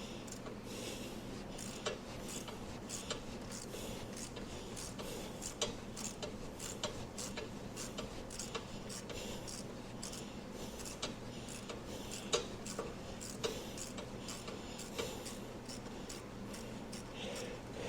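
Irregular light clicks, taps and rattles of hand tools and parts being handled during engine-bay work, over a steady low hum.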